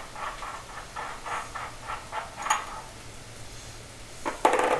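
Quick repeated rubbing strokes, about three a second, of a rag wiping solder off a freshly soldered copper pipe joint. A short, louder rustle comes near the end.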